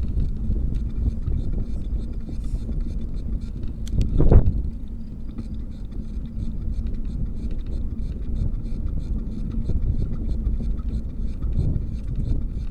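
Wind buffeting the microphone with a low rumble as a bicycle is ridden, with a fast steady ticking at about four a second and a brief louder thump about four seconds in.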